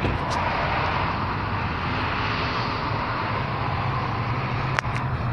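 Steady engine noise from a motor vehicle, with a hiss and a low drone, and one sharp click near the end.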